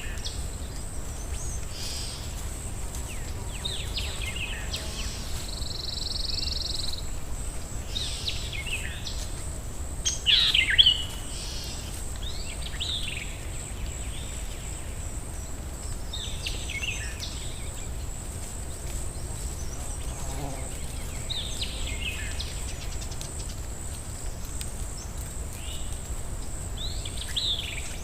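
Songbirds in a forest singing short, chirping phrases every few seconds, the loudest about ten seconds in, over a steady low rumble of wind in the trees. A faint, steady high whine sits under it all.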